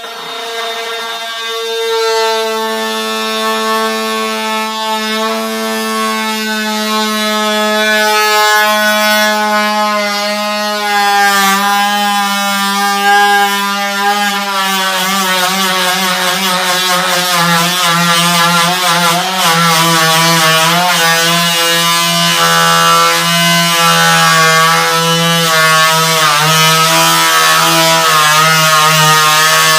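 Electric power tool motor running steadily with a strong whine, its pitch sinking slightly partway through as it takes load, as when cutting wood.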